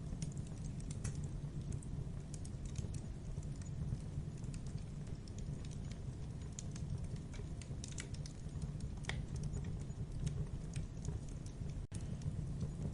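Wood fire crackling in a fireplace: irregular sharp pops and snaps over a steady low rumble of the flames. The sound drops out for an instant near the end.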